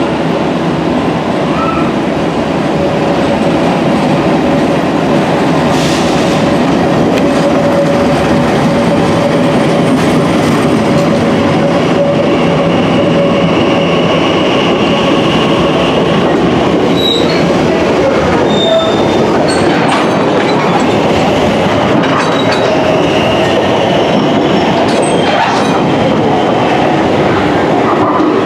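London Underground engineering train of a battery-electric locomotive and loaded ballast wagons rolling slowly through a station, with a steady rumble of wheels on rail and a long metallic wheel squeal that comes and goes, plus occasional clicks over rail joints.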